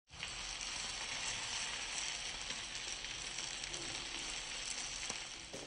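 Chickpeas, paneer and cherry tomatoes sizzling in a frying pan, a steady hiss with small crackles.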